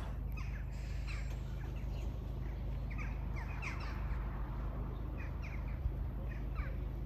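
Birds calling outdoors: many short, falling chirps repeated throughout, over a steady low rumble.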